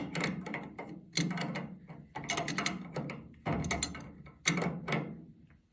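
Adjustable crescent wrench working a fitting on a water heater's pilot assembly: a series of sharp metallic clicks and scrapes, roughly one a second, as the fitting is snugged down until it is tight.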